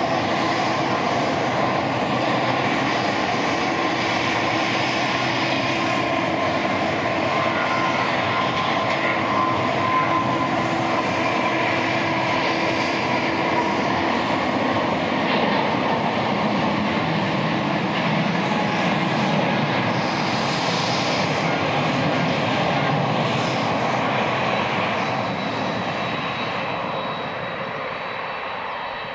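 Boeing 777-281ER airliner's jet engines running loud and steady with a high whine over a broad rush, fading away over the last few seconds.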